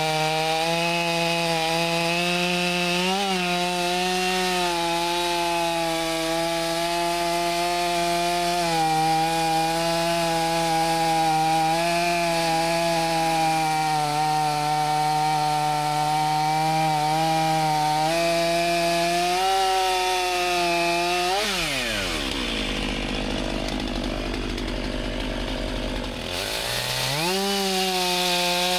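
An engine running steadily at high speed, its pitch dipping slightly now and then. About 21 seconds in it drops to a low idle, then revs back up about five seconds later.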